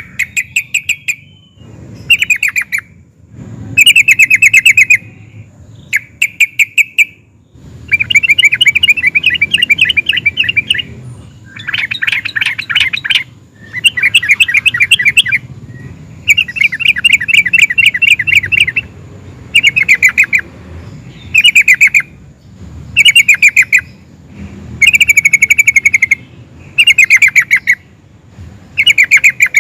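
Yellow-vented bulbul (trucukan) singing loudly in repeated phrases of rapid notes, each phrase about one to three seconds long with short pauses between.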